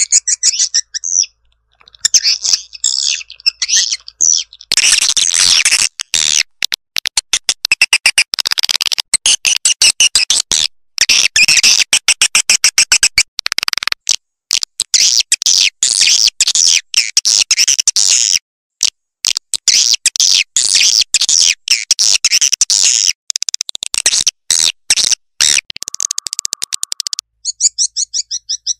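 Swiftlets twittering: a dense stream of rapid, high-pitched chirps and clicking trills, with a brief lull about a second in. It is a swiftlet lure call ('suara tarik') of the kind played to draw swiftlets into a nesting house.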